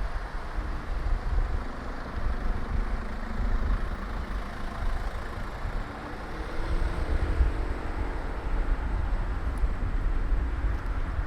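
Street traffic heard from a moving bicycle: a steady road-noise hiss under a low wind rumble on the microphone. A motor vehicle's engine hum passes from about six to nine seconds in.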